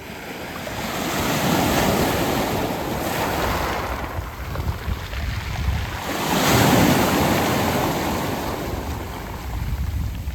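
Sea waves breaking and washing up a round-pebble (mongdol) beach. Two surges rise and fall, the second, about seven seconds in, the loudest.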